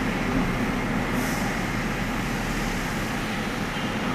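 Tata Nexon's 1.2-litre three-cylinder petrol engine running at idle with an uneven, misfiring note.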